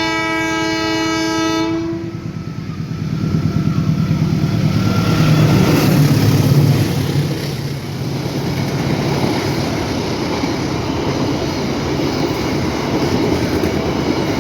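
A CC 201 diesel-electric locomotive sounds one horn blast of about two seconds, then its engine rumbles past loudly, loudest around six seconds in. After it, the goods wagons roll by with a steady rolling rumble and some clickety-clack.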